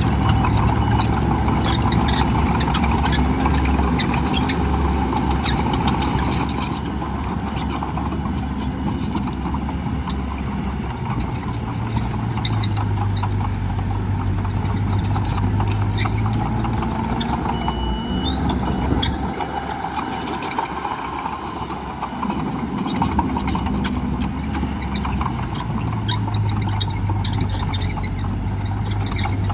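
Heavy diesel engines of earthmoving machines running, the engine note rising and falling in stretches, with scattered clanks.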